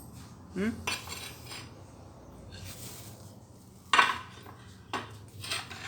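A few irregular hard clinks and clatters of metal tools against broken ceramic wall tile, the loudest about four seconds in.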